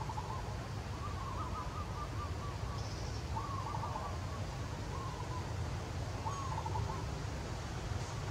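A bird calling: five short, wavering trilled calls, about one every second and a half, over a steady low rumble.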